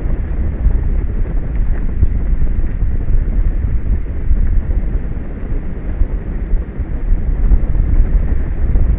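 Wind buffeting the microphone: a loud, gusting low rumble that rises and falls without letup.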